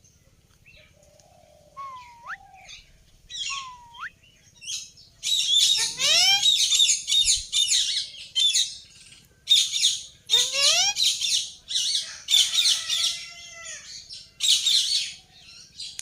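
Pet parrots chirping and whistling: two rising whistles in the first few seconds, then dense, rapid chirping in repeated bursts.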